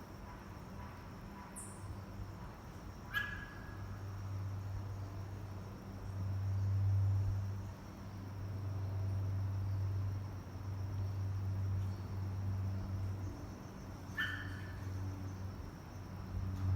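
Bali myna giving two short, harsh calls about eleven seconds apart, over a steady low hum that swells and fades.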